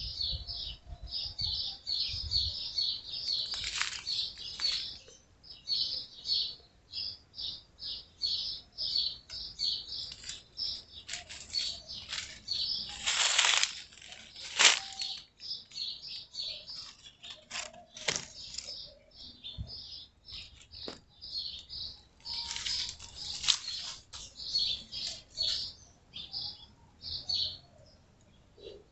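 Birds chirping steadily, a short high chirp repeated about two to three times a second, with a few louder, longer noisy bursts in between.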